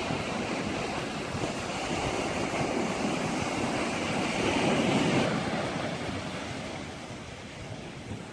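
Sea waves washing ashore: a rush of surf that swells for about five seconds and then dies away, with wind on the microphone.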